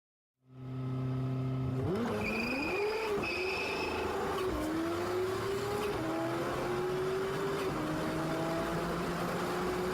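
A car engine holds a steady note, then revs and accelerates through the gears. Its pitch climbs and drops back at three upshifts.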